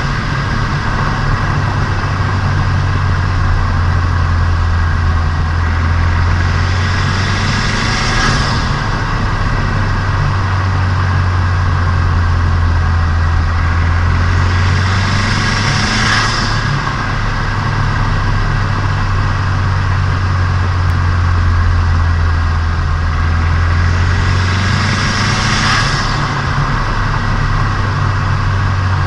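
Turbocharged Nissan Micra engine running steadily while the car is driven, heard from on board during the engine's break-in. Three times a high hiss builds for a couple of seconds and then cuts off sharply.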